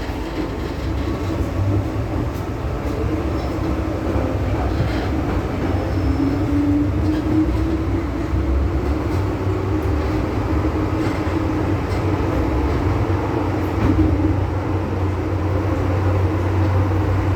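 MTR M-Train electric multiple unit running on the Tsuen Wan Line: a steady rumble of wheels and running gear with a low motor tone that shifts in pitch about six seconds in.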